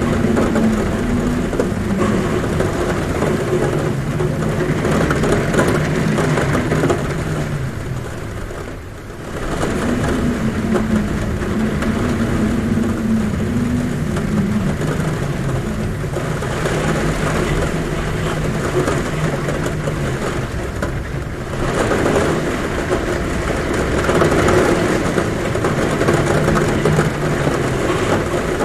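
Heavy rain drumming on a roof with wind, a steady rushing noise under low droning tones that slide downward. The pattern dips briefly and repeats about every twelve seconds, like a looped recording.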